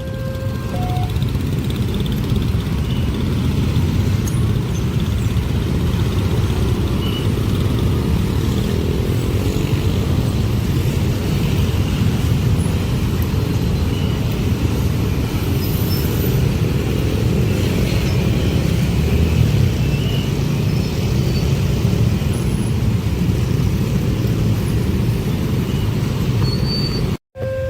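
Long train passing close by: a steady low rumble of wheels on rail with no let-up, cut off abruptly near the end.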